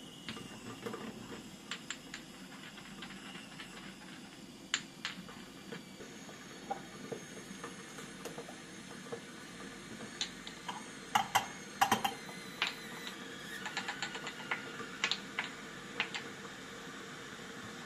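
Scattered light clicks and clinks of kitchen things being handled, busiest about ten seconds in, over a faint steady background hum.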